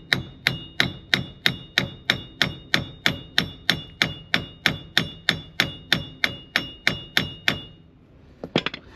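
Hammer striking steel, evenly about three blows a second with a metallic ring after each, knocking a driveshaft end through a van's wheel hub; the blows stop near the end, followed by a few light clicks.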